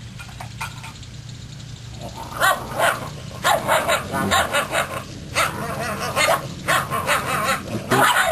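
Half-Labrador puppies yapping, yelping and growling in a squabble over food; the rapid, overlapping yelps start about two seconds in.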